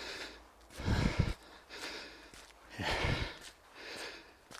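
A man breathing hard, about one breath a second, winded from jogging.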